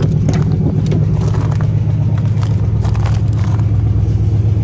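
A 1980 Oldsmobile 98's engine idling steadily with a low, even rumble, with a few light clicks and rustles over it.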